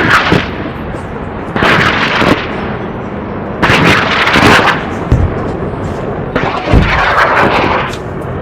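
Loud blast-and-whoosh sound effects of rocket launches and explosions: four bursts, the last one the longest.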